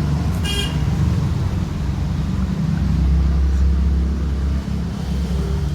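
A motor vehicle engine running nearby, a steady low rumble. A short high metallic ring is heard about half a second in.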